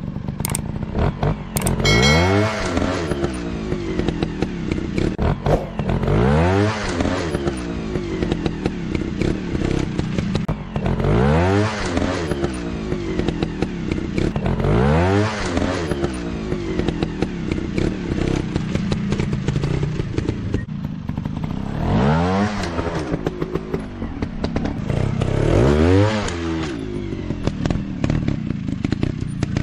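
Motorcycle engine revving over and over, its pitch sweeping up sharply each time, about once every three to four seconds, with idle-like running and some clatter in between.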